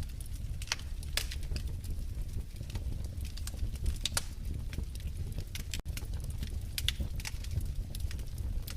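Wood fire in a fireplace crackling: irregular sharp pops and snaps over a steady low rumble of the burning fire. The sound cuts out for an instant about six seconds in.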